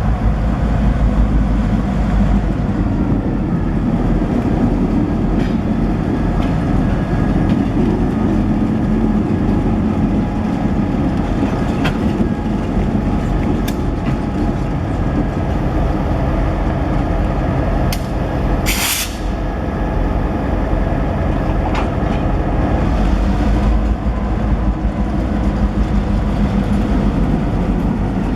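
A train rolling past: a diesel locomotive's engine running under a steady rumble of railcars on the rails. A short hiss of air, typical of an air brake release, comes about two-thirds of the way through.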